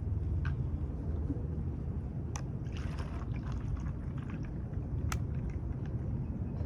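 Orange juice being poured over ice into a cup cut from a plastic bottle, with a few sharp clicks, over a steady low rumble.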